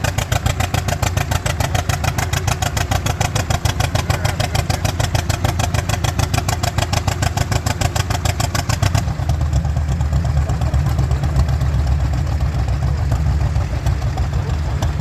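Vintage tractor engine running with a rapid, even exhaust beat; about nine seconds in the sound changes abruptly to a duller, deeper engine note.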